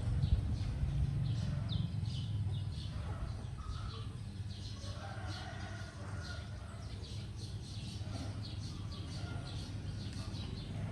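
Small birds chirping: a steady run of short, high, falling chirps, several a second, over a steady low hum.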